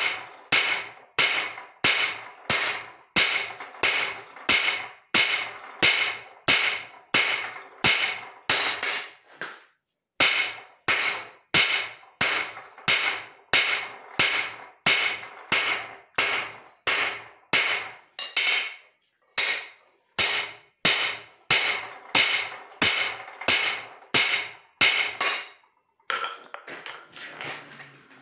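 Hand hammer striking leaf-spring steel on an anvil in a steady rhythm of about two blows a second, each blow ringing. There are short pauses about ten and nineteen seconds in, and the blows give way to softer, irregular sounds near the end.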